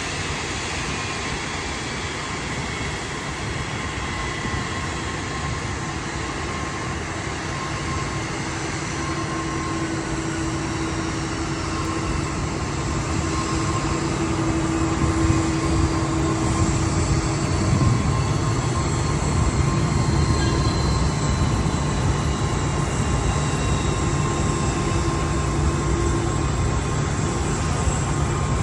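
Jet aircraft engine noise at an airport: a steady roar with high whining tones that glide slowly downward, growing louder about halfway through.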